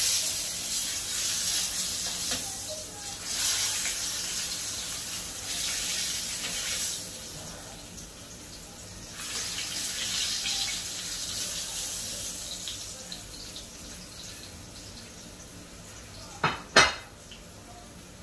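Salmon frying in hot oil in a pan, the sizzle swelling and fading as the pieces are turned and lifted out with tongs, dying down in the second half. Two sharp clacks near the end.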